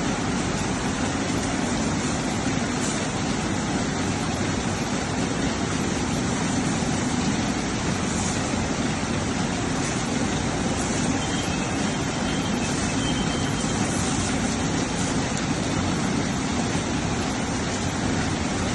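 Automatic rollover car wash machine running with a steady, unbroken mechanical noise.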